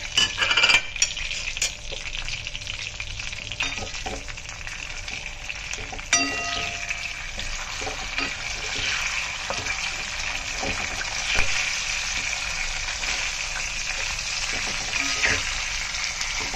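Chicken pieces with garlic cloves and ginger frying in hot oil in a kadai, a steady sizzle, the water already boiled off so the chicken now fries in the leftover oil. A wooden spatula stirs through it, with a few sharper knocks against the pan about a second in and around six and eleven seconds.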